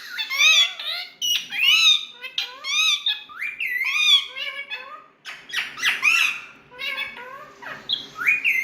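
Indian ringneck parakeets calling: a quick, near-continuous string of short, high squawks that sweep up and down in pitch.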